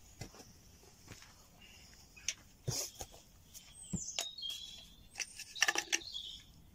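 Wild birds calling, with a high falling whistle about four seconds in followed by short high notes. Scattered small clicks and rustles come through, and a louder rustling clatter just before the end.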